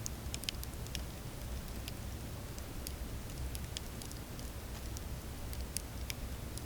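Campfire crackling: irregular sharp pops and snaps from burning wood, several a second at times, over a low steady rumble of the flames.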